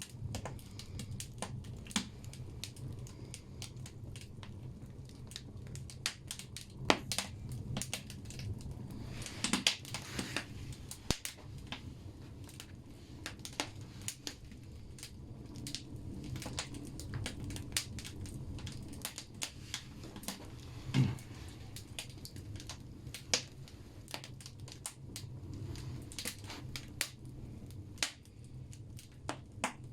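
Firewood logs burning in a bathhouse stove, crackling with frequent sharp pops over a low steady rumble of the fire. A flurry of pops comes about nine seconds in, and one loud pop about twenty-one seconds in.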